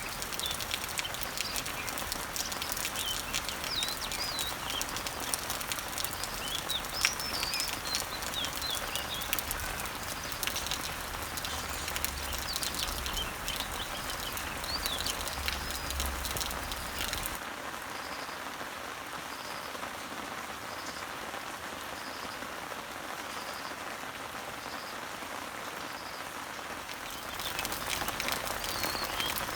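Rain pattering on garden leaves and trees, with birds chirping through it. About halfway through the rain thins and quietens, and a faint short high call repeats about every second and a half. Near the end the heavier patter returns.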